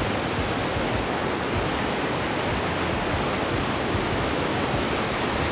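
River rapids rushing: a steady, unbroken noise of whitewater.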